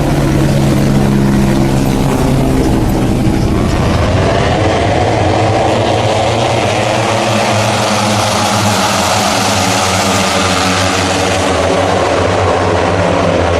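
Moto3-class racing motorcycle engines running at high revs. About four seconds in, another engine's pitch rises and grows louder and stays high.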